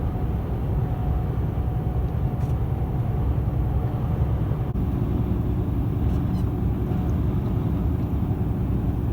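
Truck driving on the road: a steady low drone of engine and road noise.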